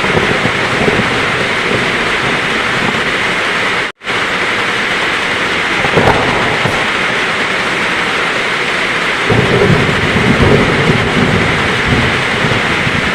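Heavy rain pouring steadily, with thunder rumbling under it. The sound cuts out for a split second about four seconds in, and a deeper, louder rumble of thunder builds from about nine seconds in.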